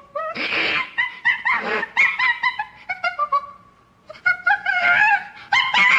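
Monkey-style chattering: quick runs of short, high, pitched hooting calls, with a brief lull a little past the middle before the calls resume.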